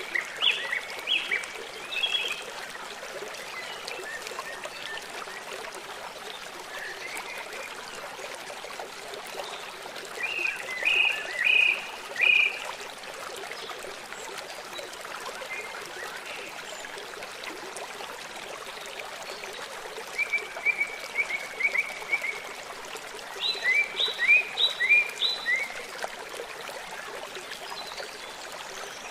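River water running steadily, with a songbird singing short phrases of quick, bright chirps four times.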